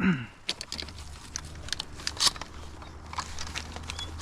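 Scattered light clicks and rustles over a low steady rumble, with a short falling whine at the very start.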